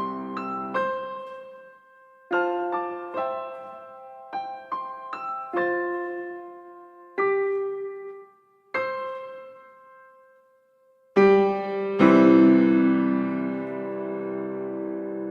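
Piano outro: slow single notes and short phrases with pauses between them, closing on two full chords about eleven and twelve seconds in, the last one held and fading.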